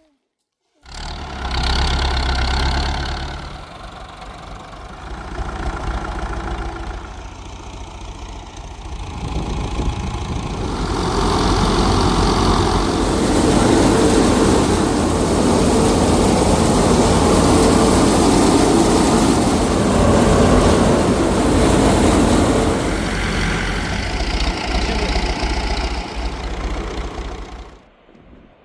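An engine running steadily with a deep low hum, growing louder about eleven seconds in; it starts and stops abruptly.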